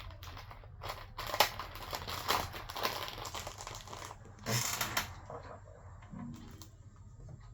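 Hands stretching rubber bands around a freshly reassembled smartphone: rustling and crinkling with a sharp snap about a second and a half in and a louder rustle near five seconds. The bands hold the new display pressed down so the screen does not come open.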